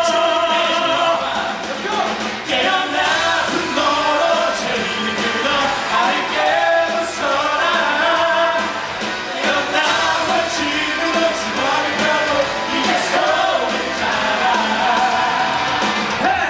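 Cast singing a rock number live on stage over a loud, full band accompaniment.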